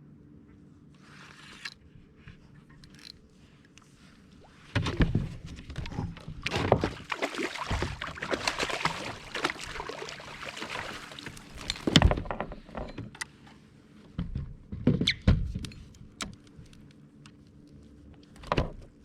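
Knocks, thumps and scraping noise on a fishing kayak as gear is handled. There is a loud stretch of clattering and rubbing from about five to twelve seconds in, then a few separate sharp knocks near the end.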